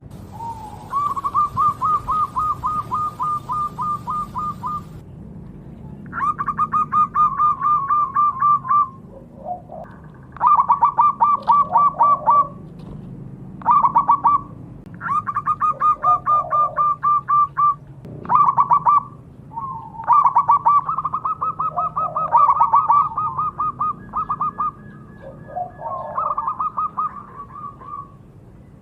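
Zebra dove (perkutut) cooing: several bursts of quick, evenly spaced notes, each lasting one to four seconds, repeated with short pauses between them.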